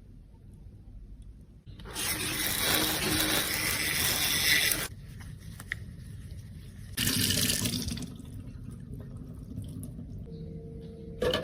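Water running in two spells, about three seconds and then about one second, starting and stopping abruptly.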